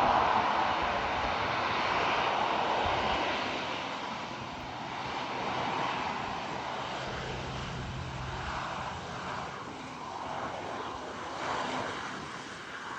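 Airplane engine noise, a steady rush that slowly fades away.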